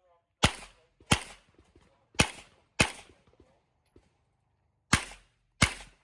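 Six handgun shots fired in three quick pairs, about two-thirds of a second between the shots of each pair and a longer pause between pairs, each shot ringing out briefly.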